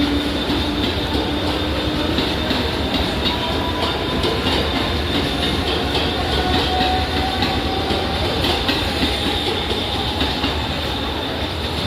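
Mumbai suburban electric local train running on the rails: a steady rumble of wheels clattering over the track, with a thin, steady high whine.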